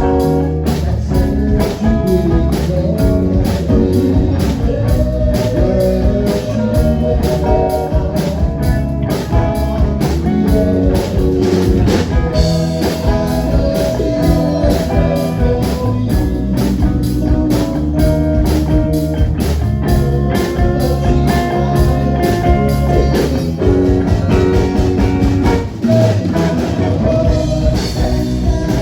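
Live band playing a song, electric guitar and drum kit to the fore over a steady beat.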